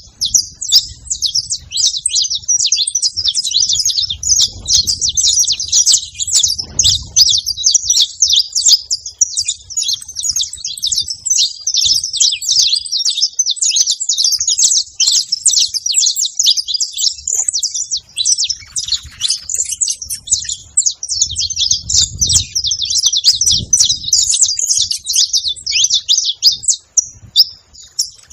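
Several saffron finches (canário-da-terra) singing together, a dense, unbroken run of high chirps and trills.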